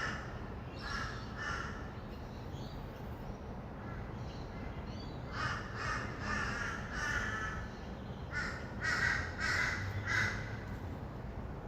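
Harsh bird calls in runs of four or five short calls about half a second apart, three runs in all, over a steady low rumble of distant traffic.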